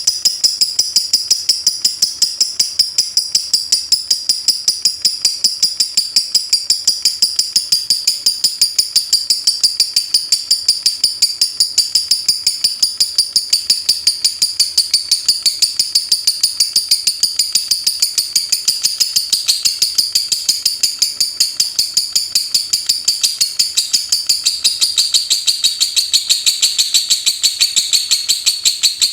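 Lovebird's 'ngetik' song: a continuous, fast, even ticking chatter of high-pitched chips that keeps up without a break.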